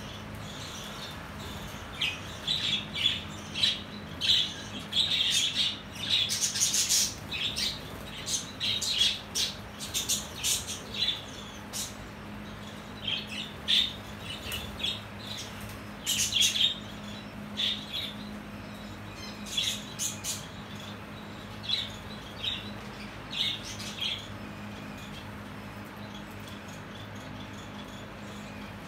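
Pet lovebirds giving rapid, short, shrill chirps and squawks in quick bursts, which stop about 24 seconds in. A steady low hum runs underneath.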